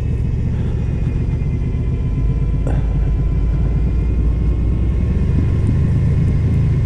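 Honda VFR800F's V4 engine running steadily on the move, with a low wind rumble on the microphone.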